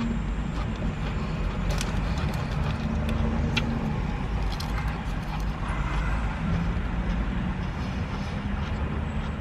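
Steady low vehicle rumble, with a few short clicks over it.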